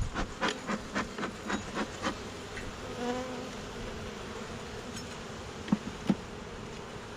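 Bee smoker's bellows pumped in a fast run of puffs, about five a second, for the first two seconds, over the buzz of honeybees at an open hive that the beekeeper says are getting agitated. After that the hum of the bees carries on alone, with one bee flying close past about three seconds in and two sharp clicks near the end.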